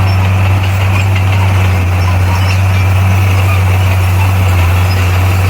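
Bulldozer's heavy diesel engine running steadily, a deep constant drone with no change in speed.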